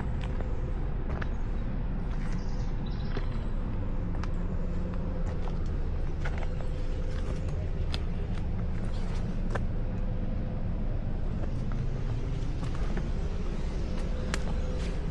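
Footsteps on a trail, sharp irregular ticks about one every second or so, over a steady low rumble.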